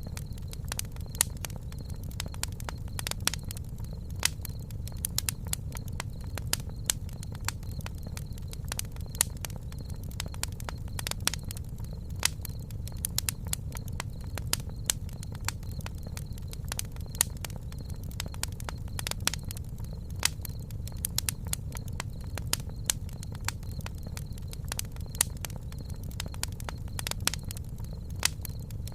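Campfire burning, crackling with frequent irregular sharp pops over a steady low rumble.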